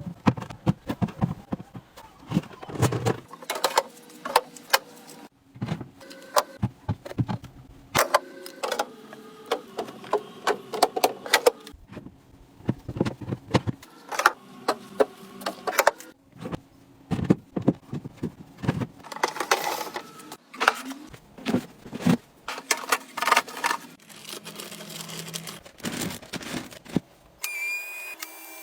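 Small hard objects being handled, with an irregular run of clicks, taps and light knocks as they are picked up and set down. About a second before the end it gives way to a steady high tone.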